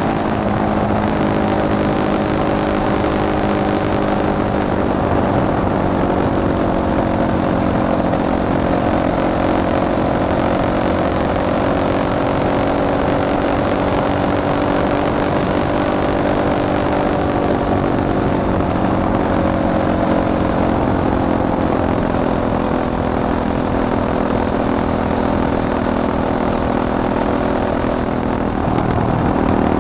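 Fantic Caballero 500 Flat Track motorcycle's single-cylinder four-stroke engine running at a fairly steady speed, its pitch drifting slowly up and down and shifting again near the end.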